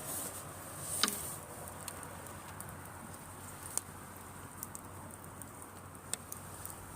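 Driftwood campfire crackling over a steady hiss, with scattered sharp pops; the loudest comes about a second in.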